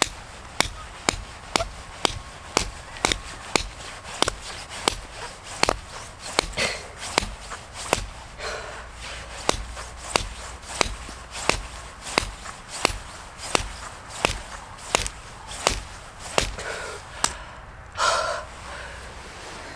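Tent peg being hammered into frozen ground, a steady run of sharp metallic strikes about one and a half a second; the ground is frozen hard, so the peg goes in with difficulty.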